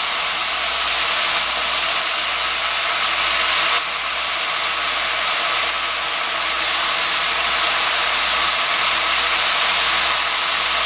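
Sweet potato stems and anchovies sizzling in a hot wok as soy sauce is spooned over them: a steady hiss.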